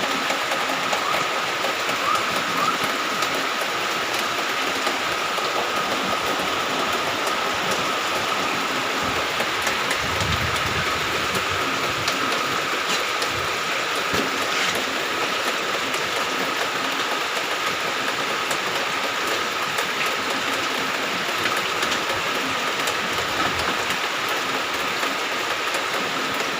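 Steady rain falling, with a thin steady high tone running underneath.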